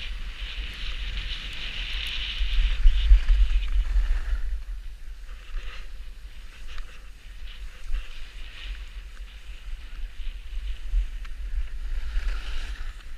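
Wind rumbling on the microphone, with a steady hiss that is loudest for the first few seconds, fades, and swells again near the end.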